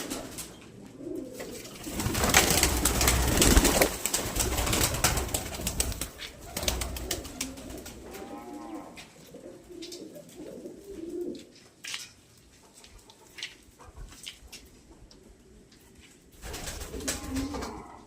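Domestic pigeons cooing in low, repeated phrases, with a loud scuffling noise for about two seconds near the start and another short one near the end.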